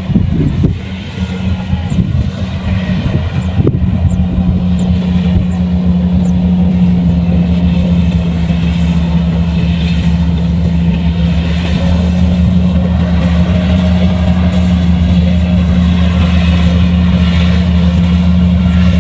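Kubota rice combine harvester running steadily under load, a loud even engine drone with a deep hum. Some irregular knocking in the first few seconds.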